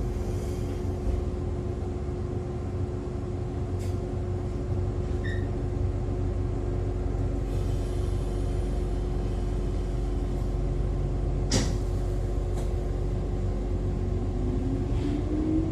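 Inside an Echizen Railway MC6101 electric railcar: a steady low rumble and hum, with a few sharp clicks. Near the end the MT54 DC traction motors begin to whine, rising in pitch as the car starts to accelerate.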